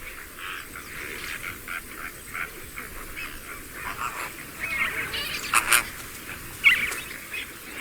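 Flamingo colony calling: many short calls overlapping throughout, with a couple of louder calls about five and a half and six and a half seconds in.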